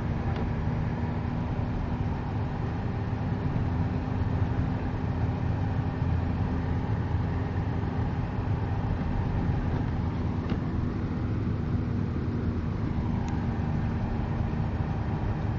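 Steady engine and road noise inside the cabin of a 2002 Hyundai Elantra GLS driving on a snow-covered road, an even low rumble with a steady low hum.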